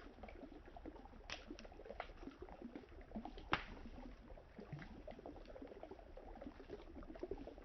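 Campfire crackling with a few sharp pops, the loudest about three and a half seconds in, over a steady gurgle of river water.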